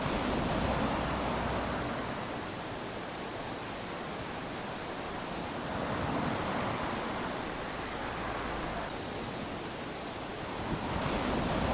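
Small waves washing onto a sandy beach: a steady hiss of surf that swells as each wave breaks and runs up, three times, about every five to six seconds.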